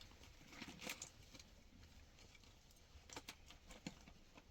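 Near silence, with a few faint, irregular taps and clicks.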